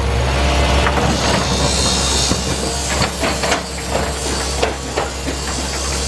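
John Deere excavator working in rock: the engine runs steadily underneath a series of irregular sharp knocks and scrapes as the bucket strikes and drags against rocks.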